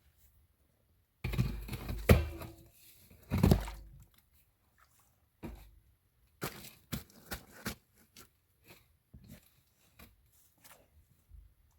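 Stones being dropped and packed into a washed-out hole, scraping and knocking against other rocks. A loud scraping tumble with two heavy hits comes first, then a run of lighter separate knocks as stones are set in place.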